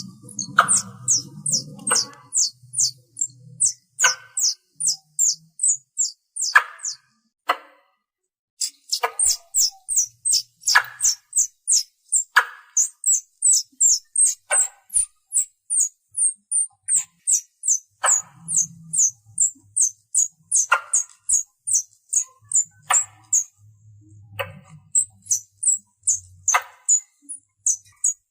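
Squirrel calling: a fast series of short, high-pitched chirps at about four to five a second, with a sharper falling note roughly every two seconds, broken by a pause of about a second some eight seconds in. These are calls that draw other squirrels in.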